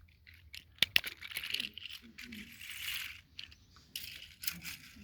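Handling noise from a small die-cast toy engine: two sharp clicks about a second in, then bursts of light rattling and rustling.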